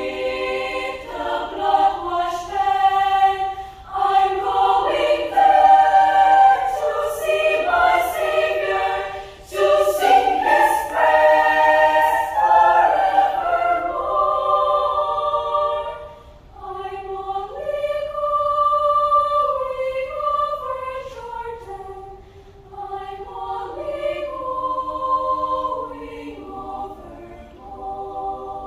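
Children's choir singing in several voice parts, in phrases with short breaths between them.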